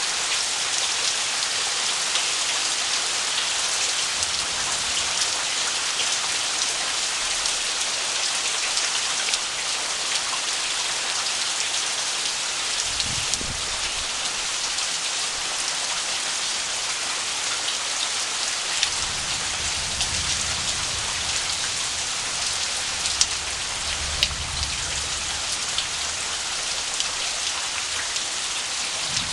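Heavy rain falling steadily, a dense hiss of drops on surfaces. Faint low rumbles come in about halfway through and again in the second half.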